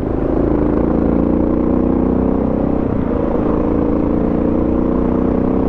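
Suzuki DR650's single-cylinder four-stroke engine running steadily at a cruise on a dirt road, its pitch holding nearly level.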